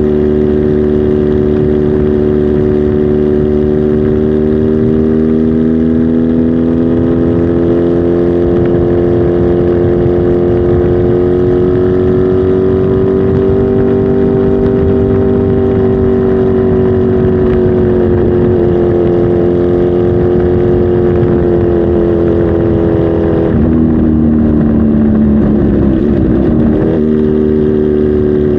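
Kawasaki Z H2 SE motorcycle's supercharged inline-four engine running steadily at a held speed. Its pitch rises slightly and eases back, and it wavers unevenly for a few seconds near the end before settling again.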